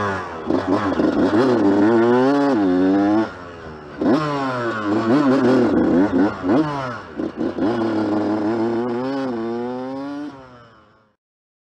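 Yamaha YZ125 two-stroke dirt bike engine revving under riding, its pitch climbing and falling over and over as the throttle is opened and shut, with a short drop-off about three seconds in. The sound fades out shortly before the end.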